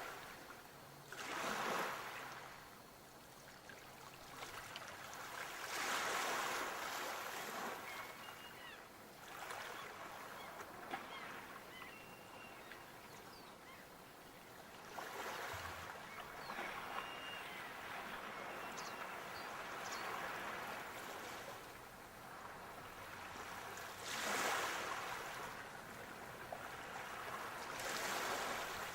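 Sea waves breaking and washing up the shore, each wave swelling into a loud rushing wash and dying back, about five times with gaps of several seconds. A few faint short high chirps sound in the quieter stretches.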